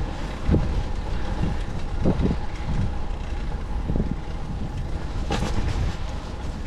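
Wind buffeting the microphone over a steady low road rumble while riding a bicycle, with soft gusts about once a second and a brief louder rush about five seconds in.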